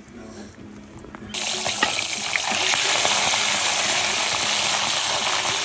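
Chicken gizzards going into hot oil, which starts sizzling suddenly about a second in and keeps up a loud, steady hiss with scattered crackles.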